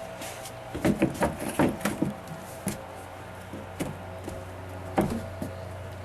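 A quick run of knocks and clatters about a second in, then a few single knocks, the sharpest about five seconds in, over a steady hum.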